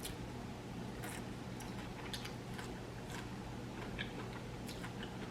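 A person chewing food close to the microphone: faint, irregular mouth clicks and smacks over a low steady hum.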